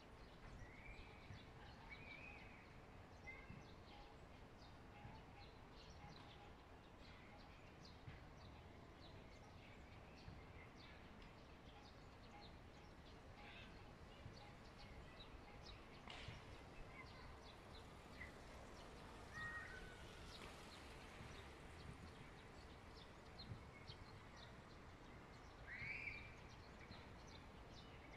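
Quiet outdoor ambience with occasional faint bird chirps, a few short calls about a second in and a louder one near the end.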